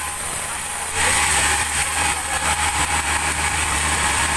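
Sawmill machinery running steadily: a low engine hum with a constant high-pitched band, growing louder about a second in.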